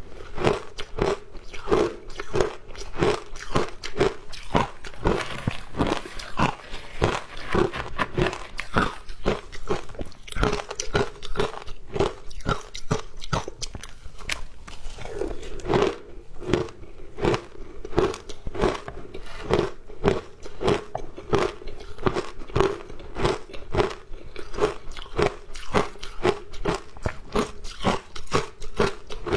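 Frozen ice being bitten and chewed, a steady run of crunches at about two a second.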